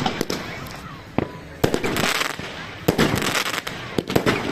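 Fireworks going off: a string of sharp bangs, several of them followed by about half a second of crackle.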